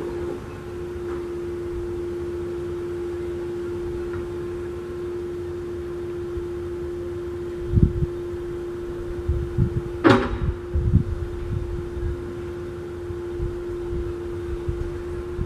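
A steady mechanical hum on one pitch, with low rumbling and knocks, and one sharp click about ten seconds in.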